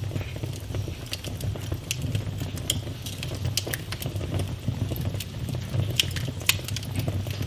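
Wood fire burning in a fireplace: a steady low rumble of the flames with irregular sharp crackles and pops, two louder pops about six and six and a half seconds in.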